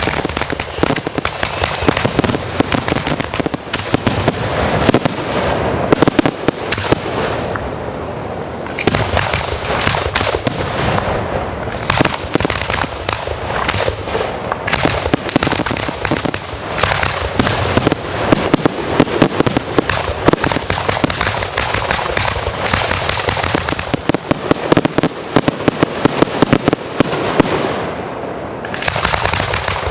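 Fireworks going off in a rapid, continuous barrage of many overlapping bangs and crackles, with hardly a gap between bursts.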